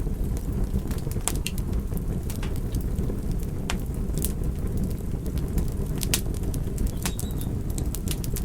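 Campfire burning: burning wood crackling, with irregular sharp pops scattered through over a steady low rumble.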